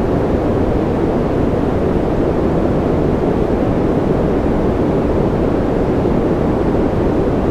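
Steady white-noise sleep track, weighted toward the low end: an even, deep hiss with no individual drops or changes.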